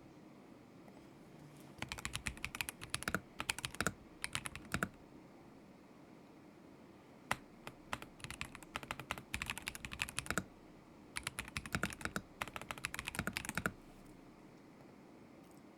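Typing on a KZZI K75 Pro mechanical keyboard with Moment linear switches: three bursts of quick keystrokes separated by short pauses, starting about two seconds in and stopping a couple of seconds before the end.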